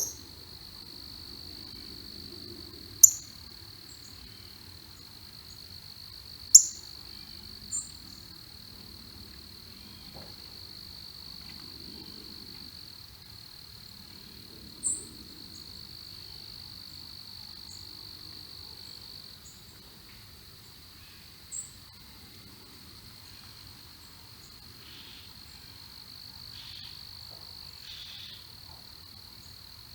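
Steady high insect trill, like crickets, with short sharp bird chirps breaking in about six times, the loudest about three and six and a half seconds in.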